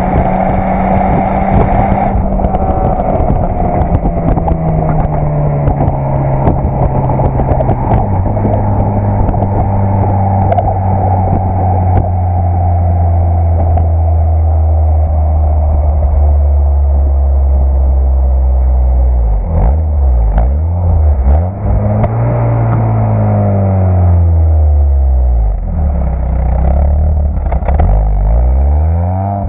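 Citroën Saxo VTS 1.6 16v four-cylinder engine running through its stock exhaust. The revs step down over the first several seconds and then hold steady. In the second half the engine speed dips and rises again several times.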